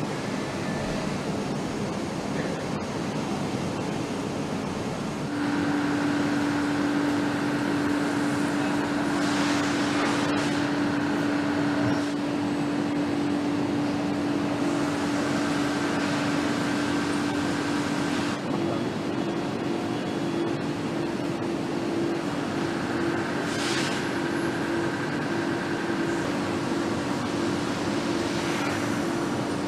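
Factory-floor noise on a motorcycle assembly line: a steady wash of machinery noise, a steady hum that comes in about five seconds in, and a few short hisses.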